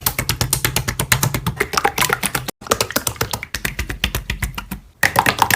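Slime being pressed and played with by hand, making rapid, crisp clicking and popping sounds, several a second. It comes in short clips joined by abrupt cuts, about two and a half seconds in and again near five seconds.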